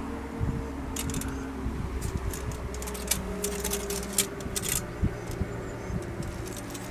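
A steady low hum with a scatter of sharp, irregular clicks and clinks, as of hard objects being handled.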